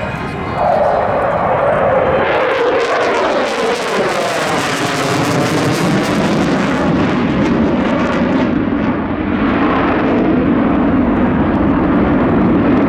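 Jet noise from a JASDF RF-4 Phantom's twin turbojets making a pass. The noise swells sharply about two seconds in, its pitch slides downward as the aircraft goes by, and it settles to a steady lower tone in the second half.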